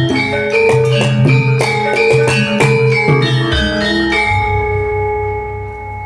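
Javanese gamelan ensemble playing in pelog tuning, bronze metallophones and gongs striking a busy pattern of ringing notes. About three and a half seconds in a deep, pulsing gong stroke sounds and the playing stops, leaving the notes ringing out as the piece ends.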